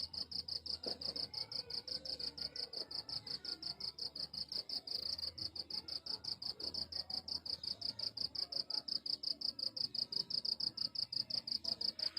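Cricket chirping steadily: a high-pitched pulse repeated about six or seven times a second without a break.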